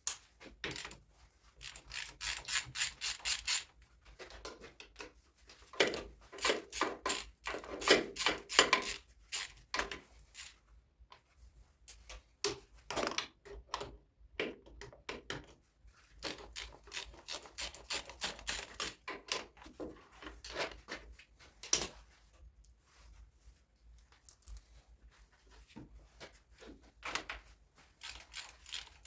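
Hand tools working on metal: bursts of rapid clicking and small knocks, stopping and starting.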